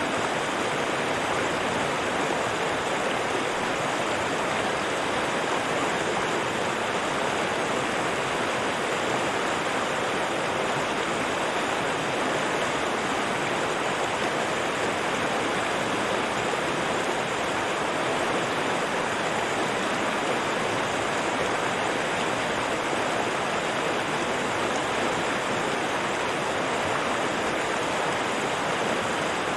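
River water flowing, a steady, even rushing noise with no changes.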